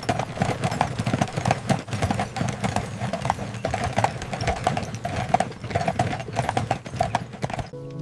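Dense, rapid, irregular clopping knocks, starting suddenly and cutting off shortly before the end.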